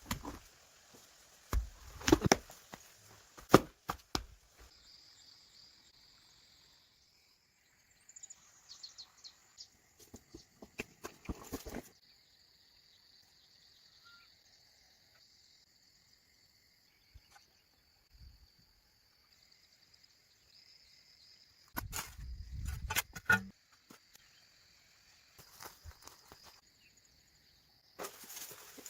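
Insects buzzing steadily in a high thin tone, with scattered sharp knocks and rustles in several short clusters; the loudest knocks come in the first few seconds.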